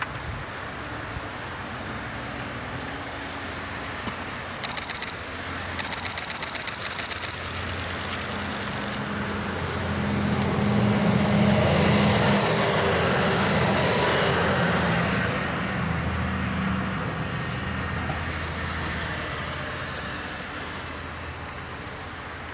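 Diesel railcar approaching, passing close by and running away: a low engine drone that grows louder, peaks as the train passes, then fades. A run of rapid clicks is heard as it draws near.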